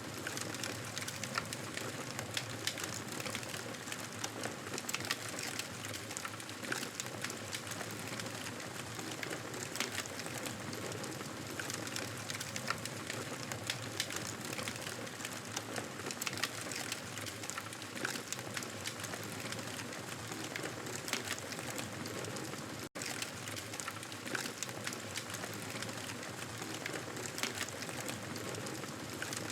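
Campfire burning with steady dense crackling and many small sharp pops over a soft hiss. A split-second dropout cuts the sound briefly about three-quarters of the way through.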